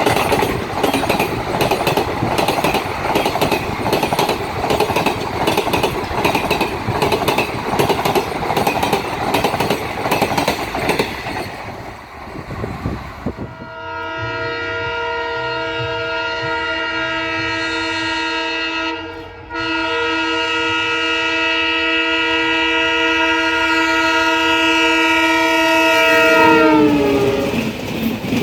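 A passing train with a rhythmic clatter of wheels over the rail joints. About halfway through, a long multi-tone air horn from an Indian Railways Alco diesel locomotive holds steady for about thirteen seconds, then drops in pitch near the end as the locomotive goes by.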